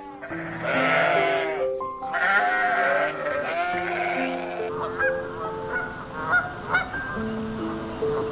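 Repeated animal calls over background music: several pitched calls in the first few seconds, then shorter rising chirps in the second half.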